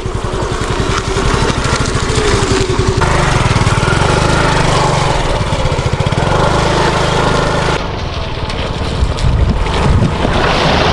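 An engine running steadily with an even, rapid pulsing beat.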